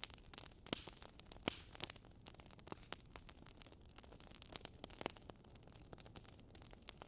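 Wood fire in a fireplace crackling: a faint hiss with many irregular sharp pops, a few louder ones in the first two seconds and again about five seconds in.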